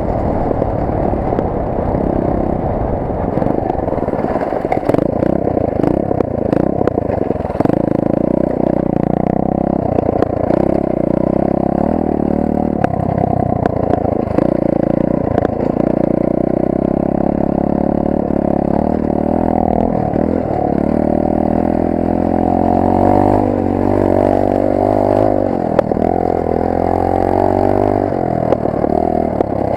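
Rampage 125 cc pit bike's single-cylinder four-stroke engine, heard from onboard as it revs up and down repeatedly with the throttle over rough trail. Scattered knocks and rattles come from the bike over bumps.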